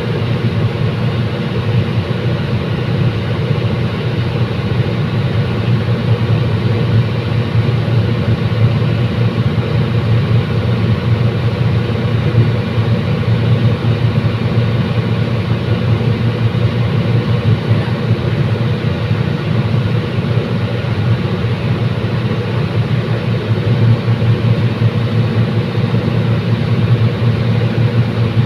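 Diesel commuter train running steadily, its engine giving a constant low drone with rumble and track noise over it.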